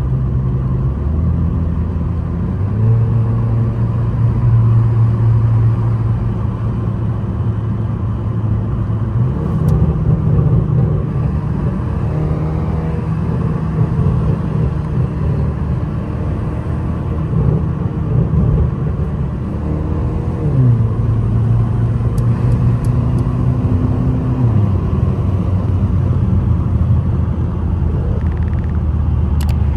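Mercedes-AMG C63's V8 engine and exhaust under way. The engine note climbs and drops several times through gear changes, with a few light crackles from the exhaust.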